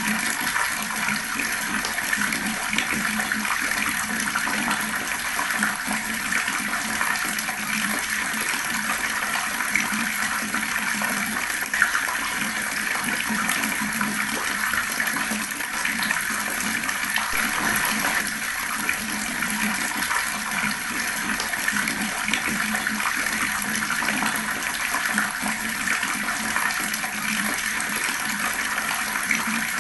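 Fast-flowing water running in a steady, unbroken rush.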